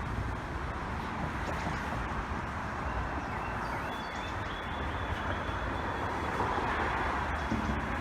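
Steady road traffic noise from cars passing along the street below.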